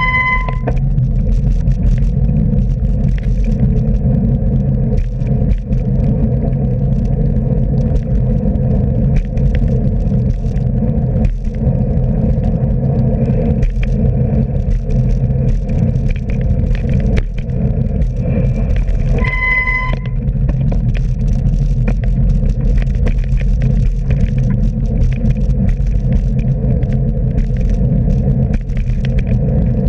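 Steady low rumble of road traffic and wind on a bicycle-mounted camera. A short, high, steady beep sounds just at the start and again about twenty seconds in.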